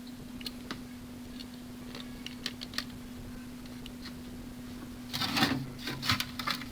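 Light clicks and small rattles of metal repair staples for a hot-staple plastic welder being picked through and handled, with a louder burst of rustling and clattering about five seconds in. A steady low electrical hum runs underneath.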